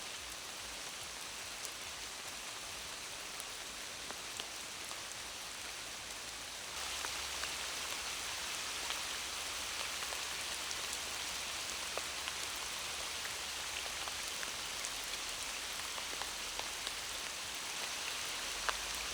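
Heavy rain falling steadily, with scattered drops ticking. It gets abruptly louder about seven seconds in.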